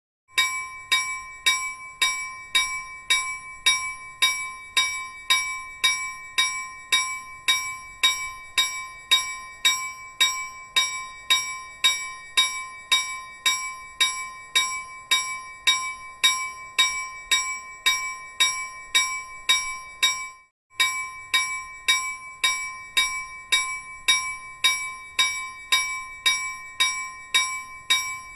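A metal bell struck in an even, rapid rhythm of about two strikes a second, each ring clear and briefly sustained before the next, with a short break about twenty seconds in.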